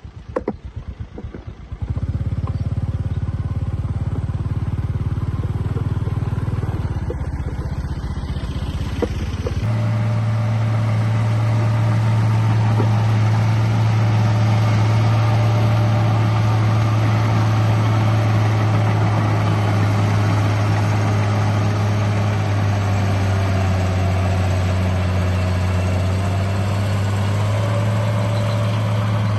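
Remote-control bulldozer running: irregular ticking for about two seconds, then a steady low engine-like drone that steps up louder and higher about ten seconds in and holds steady.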